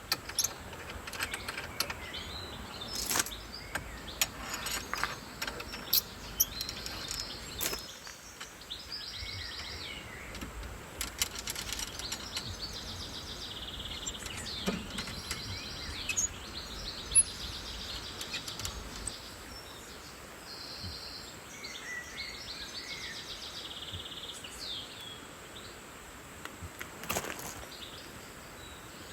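Small birds calling in a forest, with several pulsed, trilled high phrases and a few short chirps over a steady outdoor background. Scattered sharp clicks and knocks come in the first several seconds.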